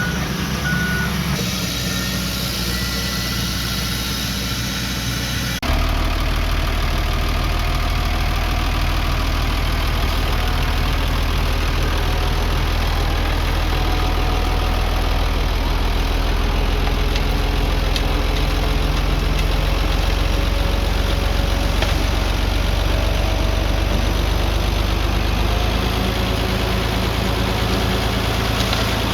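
Heavy earthmoving machinery engines, a bulldozer and dump trucks, running steadily. A reversing beeper sounds briefly at the start. The sound changes abruptly about six seconds in, and a louder, steady engine rumble runs on after that.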